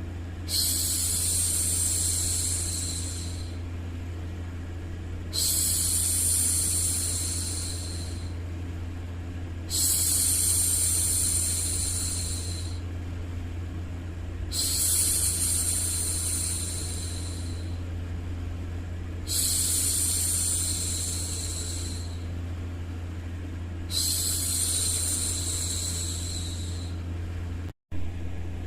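A woman's voice making long "shhh" hushing sounds, six in a row, each about two to three seconds long and about five seconds apart, over a steady low hum. The sound cuts out for a moment near the end.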